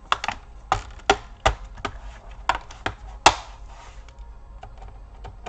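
Plastic back cover of a Toshiba Satellite C855 laptop being pressed into place: a run of sharp clicks and snaps as its clips catch, the loudest about three seconds in, then a few faint ticks.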